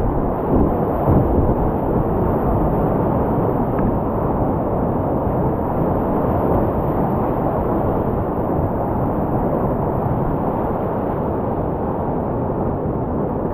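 Whitewater rapid on the South Yuba River rushing steadily: a dense, even wash of water noise with no breaks.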